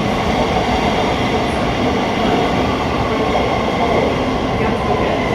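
Thameslink Class 700 electric multiple unit moving through the underground platform, a loud steady rumble of wheels and motors with a faint steady whine.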